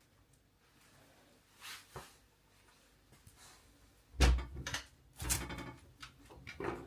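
A series of knocks and bangs: a light knock about two seconds in, a heavy thud a couple of seconds later, a longer rattling bang a second after that, and a smaller knock near the end.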